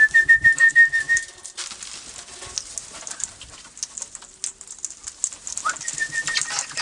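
Wild parrots feeding close by: a whistle-like call that rises, then holds a warbling note, twice, over scattered sharp squawks, scratching and wing flaps.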